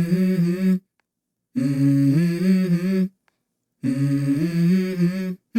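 Music: a wordless hummed vocal melody in short phrases of about a second and a half, each cut off by a moment of dead silence.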